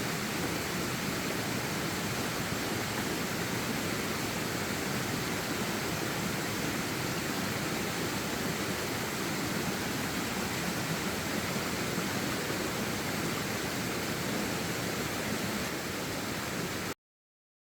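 Steady, even rushing noise with no distinct events, cutting out completely for about a second near the end.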